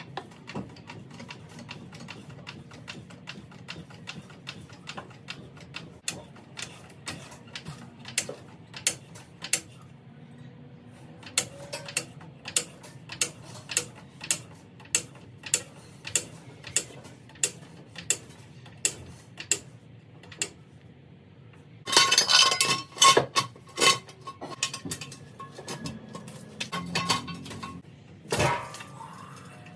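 Hydraulic floor jack being pumped to lift the car, clicking about twice a second with each stroke. About three-quarters in come loud metallic clanks and clinks with a brief ringing.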